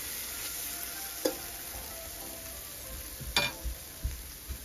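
Onions and ground spices sizzling steadily as they fry in oil in a cooking pot. A utensil clinks sharply against the pot twice, the louder clink about three and a half seconds in.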